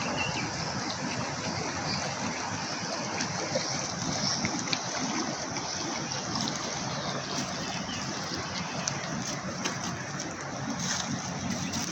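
Steady rushing of the Nairobi River's flowing water, an even wash of noise with a few faint ticks over it.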